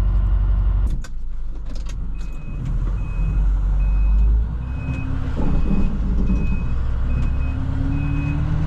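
Plow truck's backup alarm beeping steadily, about three beeps every two seconds, starting about two seconds in, over the truck's engine running. A couple of sharp knocks come about a second in.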